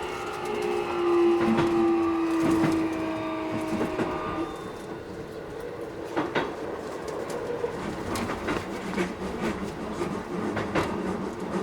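Keikyu 1000 series train's Mitsubishi IGBT inverter and traction motors whining in several tones that fall in pitch as the train slows, fading out about four seconds in. Then the wheels' running noise and clicks over rail joints carry on.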